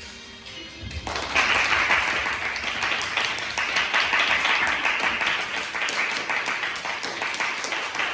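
Audience applauding, breaking out about a second in and carrying on steadily.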